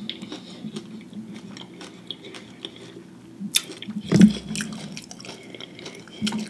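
Close-miked chewing of a Flamin' Hot Cheetos-crusted fried pickle: wet mouth sounds with small crunches and clicks, and a louder smack about four seconds in.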